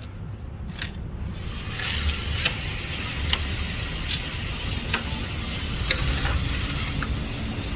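Electric target carrier running along its overhead track, bringing the paper target back to the shooting booth: a rattling hiss that grows louder over the first two seconds and then holds, with small clicks along the way.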